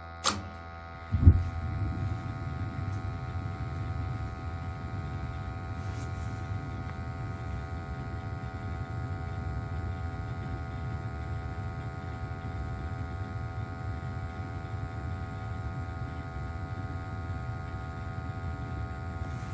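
Gas burners of a Crown hot water boiler lighting all at once, with a sudden onset about a second in just after a click, then burning with a steady low noise. The gas valve opens directly instead of step-opening, and the boiler is overfiring, which the plumber puts down to a wrong replacement gas valve letting through too much gas.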